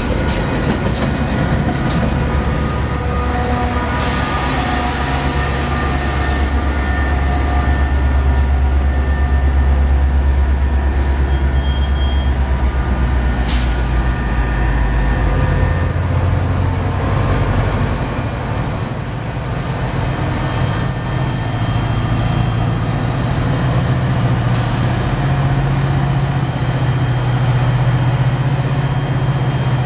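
Metra commuter train passing, hauled by an EMD F40PH and an MPI MP36PH-3S diesel locomotive: steady rolling noise of the bilevel cars on the rails under a loud, deep diesel engine drone. The drone shifts to a higher pitch about halfway through, as the locomotives go by.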